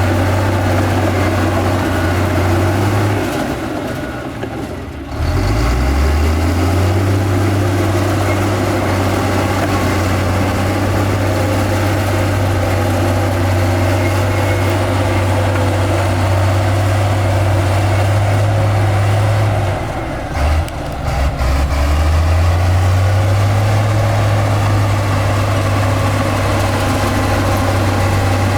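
Heavy-equipment diesel engine running steadily, its note dropping and climbing back twice, as the throttle is eased off and opened up again.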